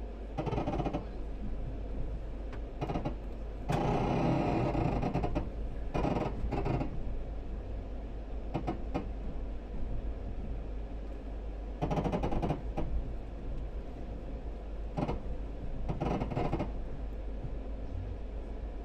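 A moving train heard from on board: a steady low rumble with irregular bursts of rattling clatter, the longest about four seconds in.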